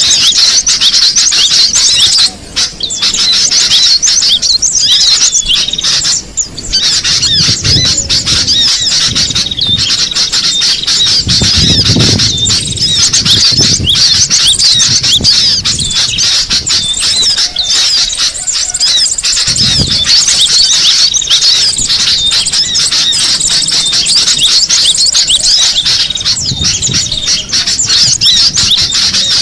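Cinereous tit (gelatik batu) calling: a dense, unbroken stream of rapid, high chattering notes.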